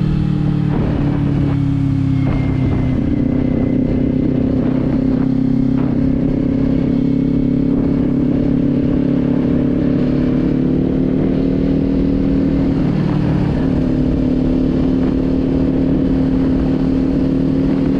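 Kawasaki Z400 parallel-twin engine running at steady cruising revs, with wind rumble on the microphone. The engine note dips briefly about thirteen seconds in, then settles back to the same steady pitch.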